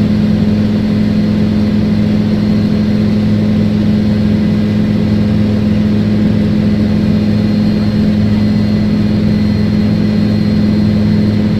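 Helicopter engine and rotor noise heard from inside the passenger cabin in flight: a loud, steady hum with a deep, even throb.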